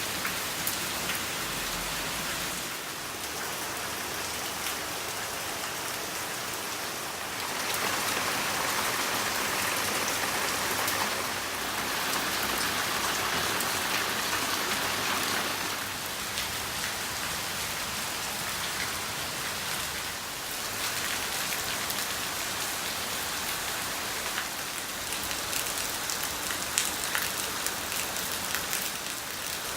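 Steady heavy rain falling and pattering on surfaces, swelling to a harder downpour from about seven seconds in to about sixteen seconds in, with scattered sharper drips.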